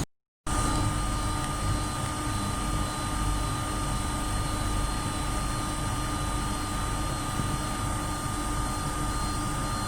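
Steady electric hum and whine of a Metro Bilbao train, holding level without change.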